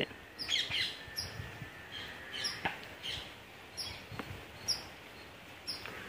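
A small bird chirping over and over, short high chirps about once a second, over faint outdoor background noise, with a couple of faint clicks midway.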